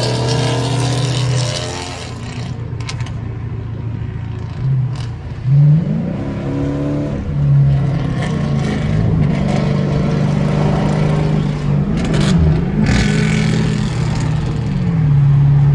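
Straight-piped 5.7 HEMI V8 exhaust of a Dodge Charger R/T on a highway pull: the engine note climbs sharply about five seconds in, holds high and wavers under hard acceleration, then drops back to a lower, steady drone near the end.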